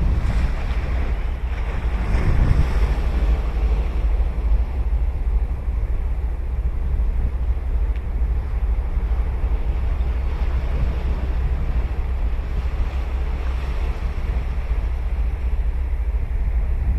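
Ocean surf breaking and washing on a sandy beach, with wind buffeting the microphone as a constant low rumble. The surf swells louder near the start and again near the end.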